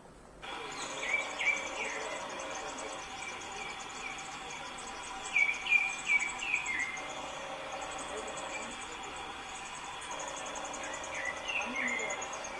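Small bird giving clusters of short, sharp chirps that sweep downward, three bursts of a few notes each, over a constant drone of crickets and other insects. The sound cuts in abruptly about half a second in.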